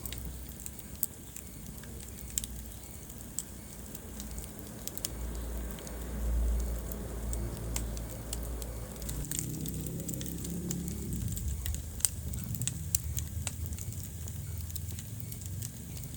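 Wood fire crackling in a fireplace: scattered sharp pops and snaps over a low, steady rumble of the flames.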